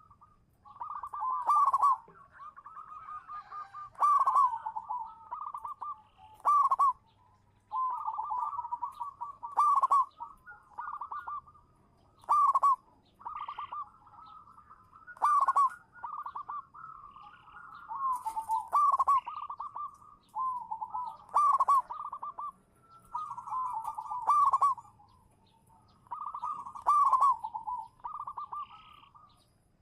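Zebra dove (perkutut) cooing: its rippling, bubbling phrase repeated about every two to three seconds, each opening with a sharp high note.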